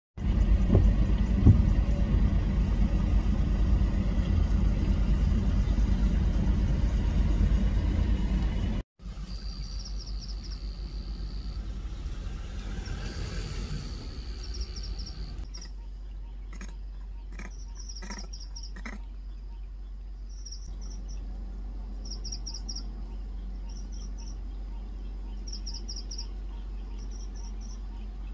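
Low rumble of a vehicle's engine heard from inside the car for about the first nine seconds. After a cut the sound is quieter, and a bird calls in short groups of high chirps repeated every second or two, with a few short clicks a little past halfway.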